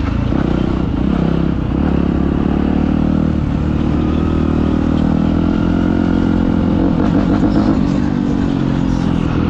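Dirt bike engines running steadily.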